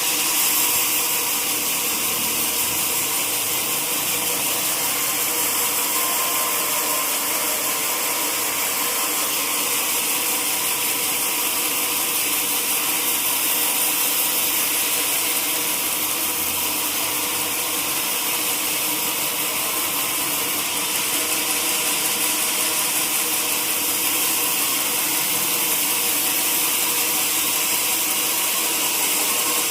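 Sawmill saw running steadily: a constant high hiss with a few faint steady hums beneath, unchanging throughout.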